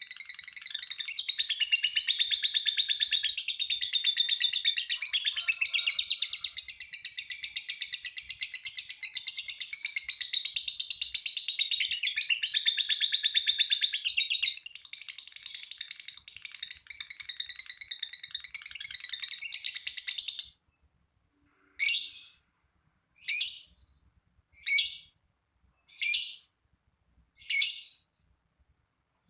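Lovebird's 'ngekek' song: a long, continuous, rapid high-pitched chattering trill that stops abruptly after about twenty seconds. It is followed by five short separate chirps, evenly spaced about a second and a half apart.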